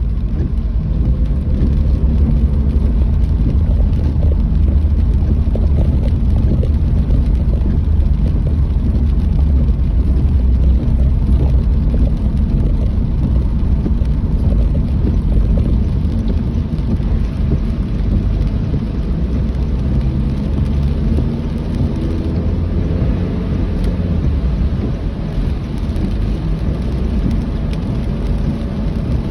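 A vehicle travelling in rain: a steady low rumble of the vehicle with the hiss of rain over it.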